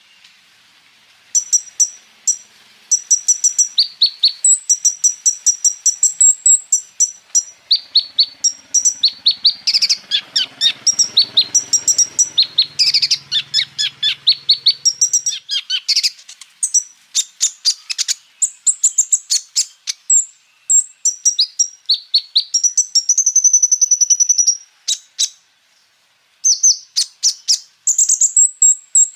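Kolibri ninja sunbird singing a rapid-fire stream of high, sharp chirps and trills with mimicked calls of other birds worked in. There is a short break about 25 seconds in.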